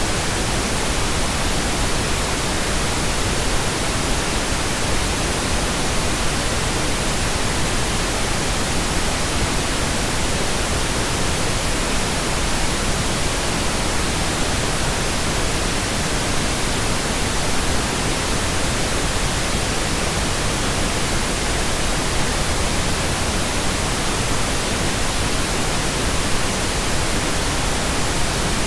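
Steady, continuous pink noise generated in software: an even hiss spread across all pitches, without any change.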